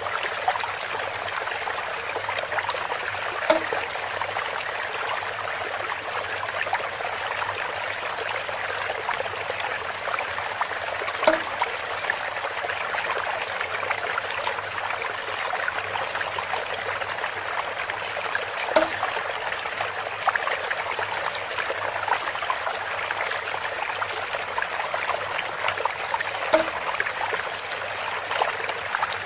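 Water trickling steadily through a bamboo spout, with a short, sharper sound standing out about every seven and a half seconds, four times.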